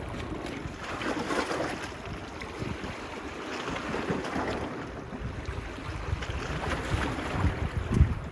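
Small waves washing onto a beach, swelling about every three seconds, with wind buffeting the phone's microphone and a stronger gust thump near the end.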